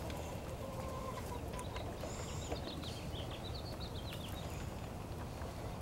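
Birds chirping in a quick run of short, high, falling chirps about halfway through, over a steady low background rumble.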